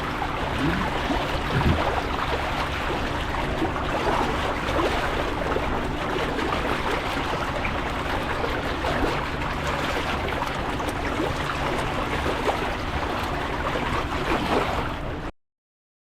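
A boat under way: a steady rush of water with a low, even engine drone beneath it, cutting off suddenly near the end.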